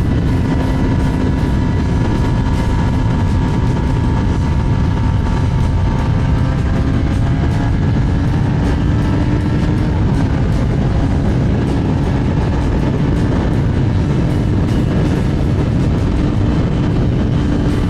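Kawasaki ZX10R's inline-four engine running steadily at cruising speed, its note holding fairly even with slow small shifts in pitch, under a constant rush of wind noise on the microphone.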